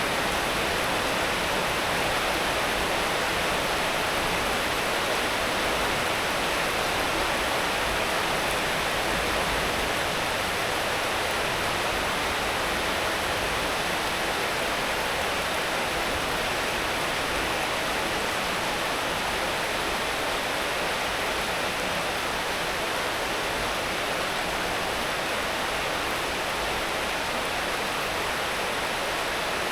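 Steady rain falling, a dense even hiss with no distinct drops or changes.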